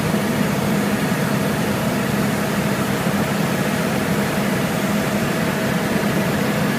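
Helicopter engine and rotor noise heard from inside the cabin: a loud, steady running noise with a constant low hum.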